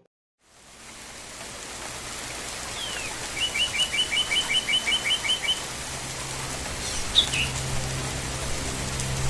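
A songbird singing a rapid, even trill of about a dozen repeated chirps, then a couple of single calls, over a steady hiss of outdoor ambience.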